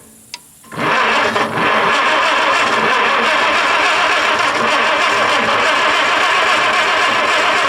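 Farmall Super A tractor's starter cranking the engine over with a grinding sound, the engine turning but not firing. A short click comes first, and the cranking starts just under a second in. The missing spark is put down to a bad ignition coil.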